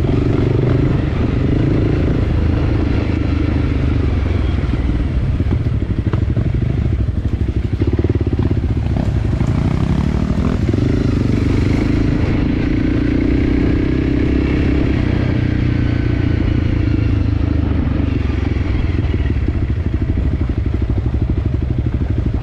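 Enduro dirt bike engine running steadily while ridden, its revs rising for a couple of seconds about nine seconds in.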